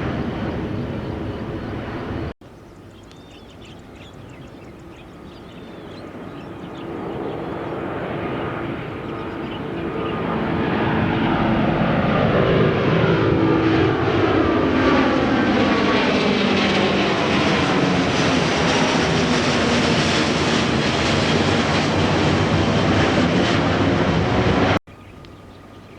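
Jet airliner engines at takeoff power as the aircraft passes. The sound swells over about ten seconds, then holds loud, with a sweeping rise and fall of pitch. It breaks off suddenly near the end, and a separate stretch of aircraft noise before a cut about two seconds in.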